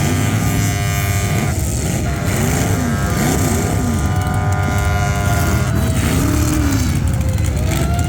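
Several demolition-derby cars' engines running hard at once, their pitch rising and falling again and again as they rev.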